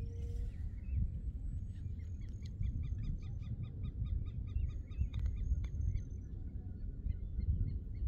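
A bird calling in a quick series of short, repeated notes, about four a second, breaking off around six seconds in and starting again near the end, over a steady rumble of wind on the microphone.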